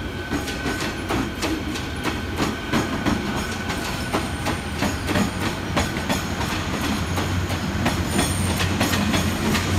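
Multi-car passenger train rolling past close by: wheels clicking over rail joints in an irregular run, with a low running hum that grows louder as the cars go by. A thin high wheel squeal comes in near the end.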